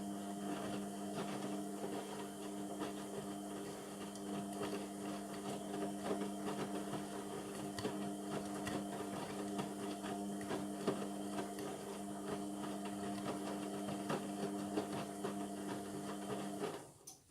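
Indesit MTWC71252WUK washing machine giving a steady electric hum with a rapid rattle of small clicks, cutting off suddenly near the end.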